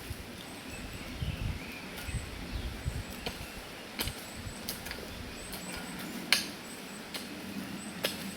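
Scattered clicks and knocks, with a few dull low thuds early on and one sharp click about six seconds in, over faint, high, repeated chirping outdoors.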